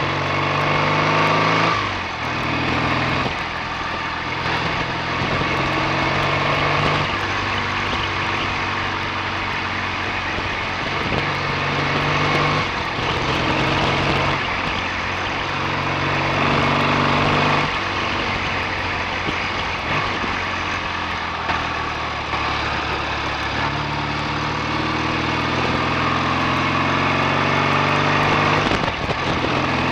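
BSA A65 650 cc parallel-twin engine running on the road. Its note climbs and falls back several times as the bike accelerates and eases off.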